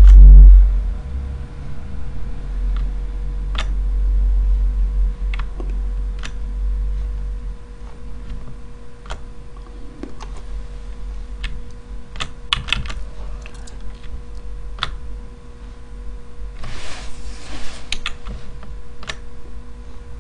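Scattered computer keyboard and mouse clicks, one or two at a time, with a quick run of keystrokes about twelve seconds in. A low rumble underlies the first several seconds, a brief rustle comes near the end, and a faint steady hum runs throughout.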